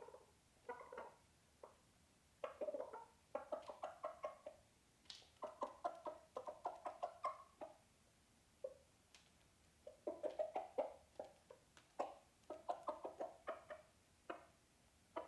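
Icelandic chickens clucking faintly: quick runs of short clucks, several a second, broken by brief pauses.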